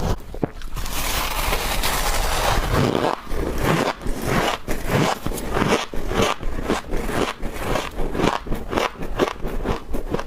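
Frost being scraped up and crunched while eaten: a rough scraping for a couple of seconds, then quick, closely spaced crunches.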